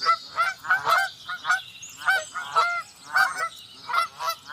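A flock of fowl calling: many short pitched calls, several a second and overlapping one another.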